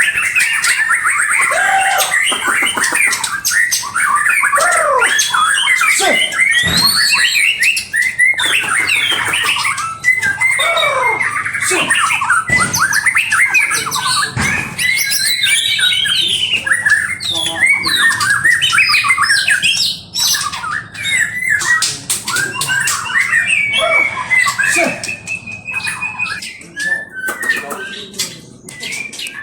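Songbirds singing and chattering loud and fast, a dense run of rapid gliding notes, squawks and clicks with hardly a pause, becoming more broken about twenty seconds in.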